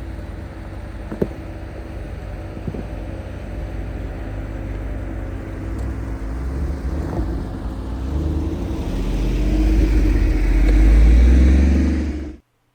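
Off-road vehicle engine running on a trail, with a single sharp knock about a second in. The engine grows louder and rises in pitch as it accelerates, then cuts off abruptly near the end.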